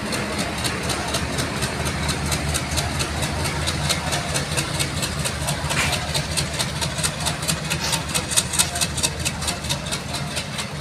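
Diesel-hauled passenger train rolling past: a steady low diesel engine drone under rapid, even clicking of the coach wheels over rail joints, about five clicks a second, growing louder in the second half.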